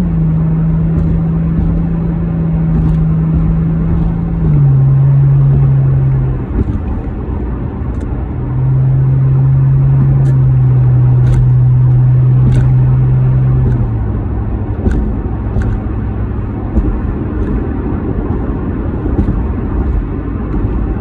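Toyota Mark X GRX130's V6 exhaust through a Kakimoto Class KR rear muffler, driving in manual-shift mode: a deep, steady drone that steps down in pitch a few times. It gets louder for two stretches of a few seconds each, then runs quieter and lower for the rest.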